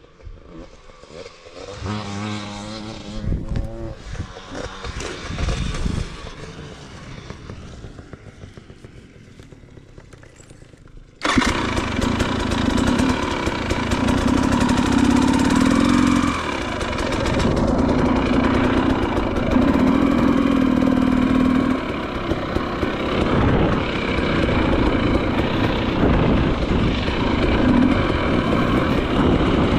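Enduro dirt bike engine running, faint at first, then suddenly much louder about eleven seconds in and staying loud, its note rising and falling as it is ridden.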